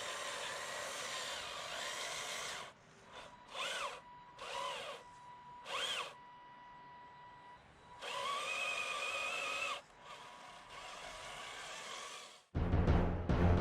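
Electric motor and gearbox of a radio-controlled 6x6 truck whining. It runs steadily at first, then gives three short bursts that rise and fall in pitch, then a steadier stretch. Loud music with heavy drums comes in near the end.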